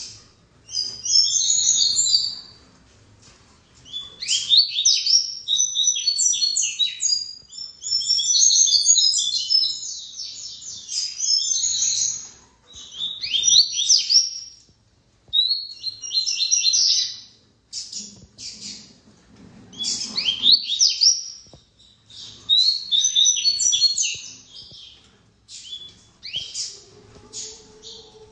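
Captive male Sporophila seedeater (papa-capim / coleiro type) singing: a run of fast, high chattering song phrases repeated again and again with short pauses between them.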